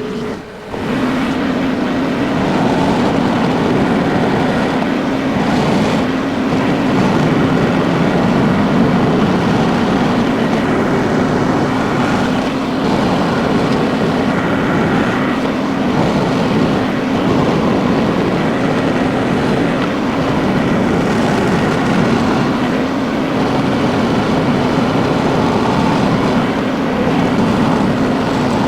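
Tractor engine running steadily, working as the tractor is driven; the sound rises sharply about a second in and holds a constant drone.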